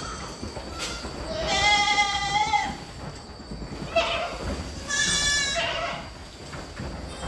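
Goats bleating: two long, wavering bleats of about a second each, with a short call between them.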